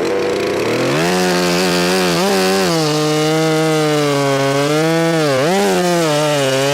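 Two-stroke chainsaw engine revving up about a second in, then running at high revs while cutting wood. Its pitch dips briefly a few times as the chain loads up in the cut.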